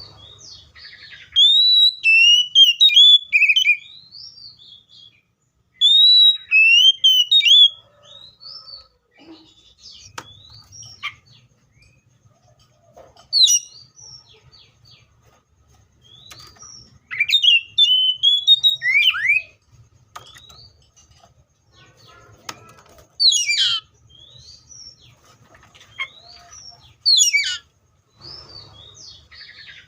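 Magpie-robin singing: loud, clear whistled phrases of sliding and warbled notes, each lasting one to three seconds, separated by pauses of a few seconds.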